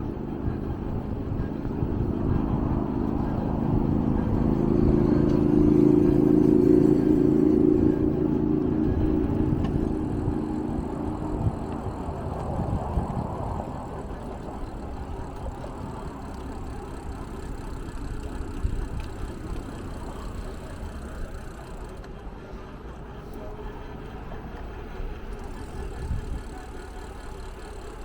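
A motor vehicle running, its hum swelling to a peak about six seconds in and then fading to a lower steady level.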